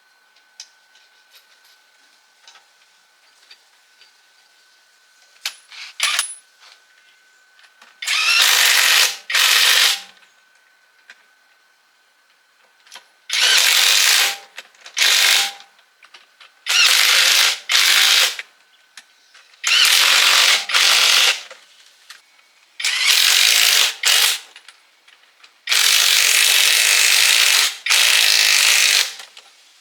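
A workshop tool giving loud bursts of hissing noise, each one to three seconds long and some in quick pairs, repeated about every three seconds after a quiet start.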